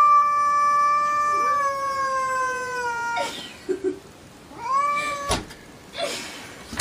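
A domestic cat yowling: one long drawn-out call of about four seconds whose pitch slowly falls, then a breath and a shorter call that rises and drops about five seconds in.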